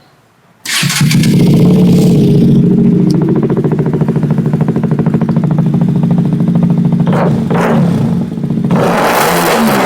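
KTM RC 200's single-cylinder engine, fitted with an aftermarket Akrapovic-replica full-system exhaust, starts up less than a second in and then runs at idle, with two short louder bursts in the second half.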